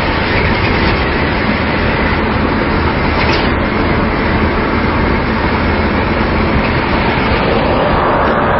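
Steady road noise of traffic in motion: engines and tyres on the road, with a continuous low rumble.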